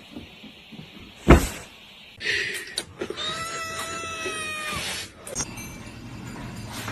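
A sharp thump about a second in, then a cat gives one long meow lasting nearly two seconds.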